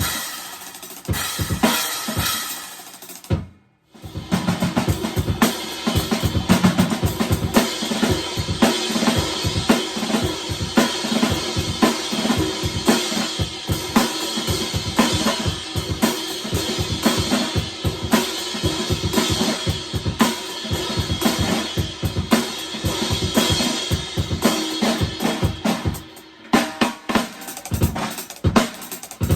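Drum kit played in a dense, busy pattern of bass drum, snare and rimshot strokes under ringing cymbals. The playing breaks off for a moment about three and a half seconds in, then goes on.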